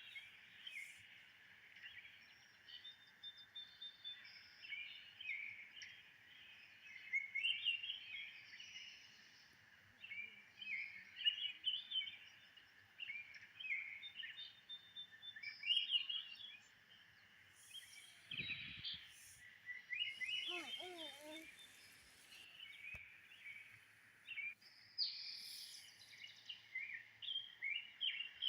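Wild birds chirping and trilling steadily in many short, overlapping calls, with a lower, wavering call about two-thirds of the way through.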